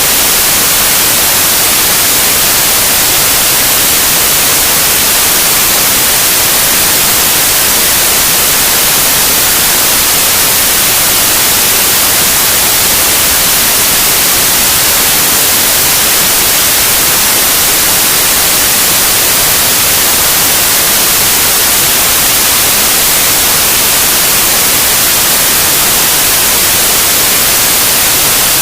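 Loud, steady white noise: an even hiss without any change, strongest in the high frequencies.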